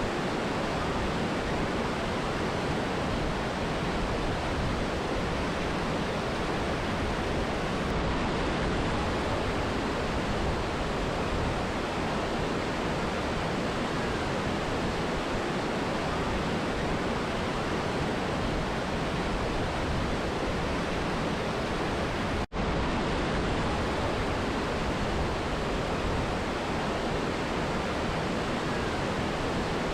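Steady rushing of a mountain river and waterfall, an even wash of water noise. It cuts out for a split second about three-quarters of the way through, then carries on unchanged.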